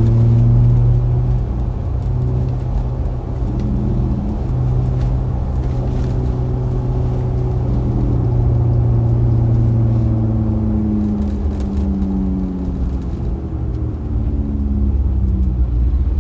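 Truck engine and road rumble heard from inside the cab while driving, a steady low hum whose pitch drifts slowly up and down with speed.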